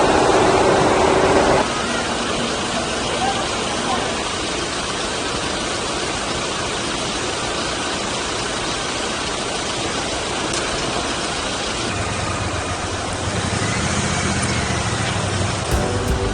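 Steady rushing noise from a vehicle in motion, with engine sound under it. A deeper engine hum comes in about three-quarters of the way through.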